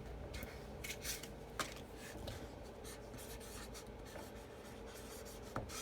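Marker writing on the paper backing of cut-apart stencil transfers: faint scratchy strokes, with a light click about a second and a half in and another near the end.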